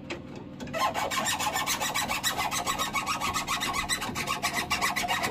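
Rapid rasping clicks from a hand tool or fitting being worked on the boiler, about nine a second, starting about a second in and running on evenly.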